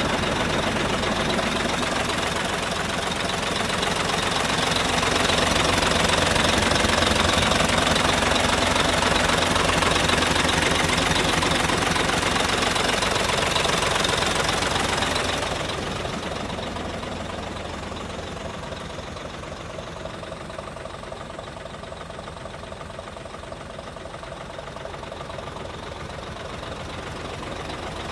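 Isuzu Giga heavy truck's diesel engine idling with a steady, rapid diesel clatter. About 16 s in it becomes quieter and duller.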